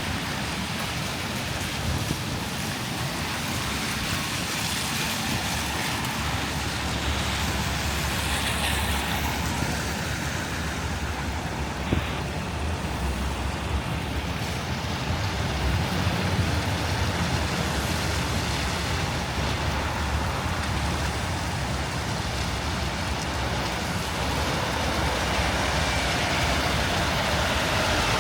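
Steady city street noise of traffic in a snowstorm, with low wind rumble on the microphone from strong gusts. A single sharp click about midway.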